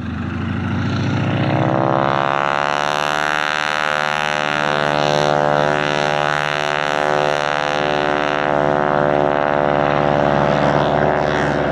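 Propeller aircraft engine running at high power close by, its note rising in pitch and loudness over the first couple of seconds, then holding steady.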